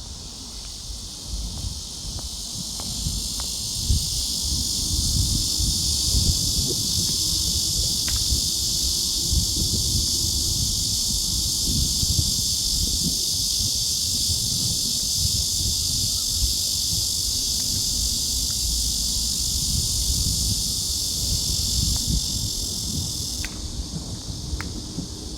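Insects buzzing in a steady high-pitched chorus that cuts off abruptly near the end, with wind rumbling on the microphone.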